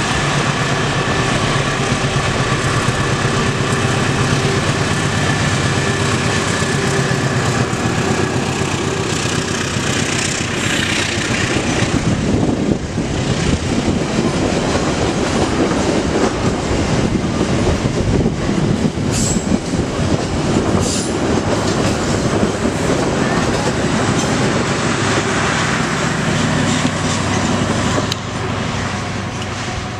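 Passenger train passing close by on a curve. First the diesel locomotive's engine runs steadily as it goes by, then a long rake of coaches rolls past, its wheels clattering over the rail joints. A couple of brief high squeals come about twenty seconds in.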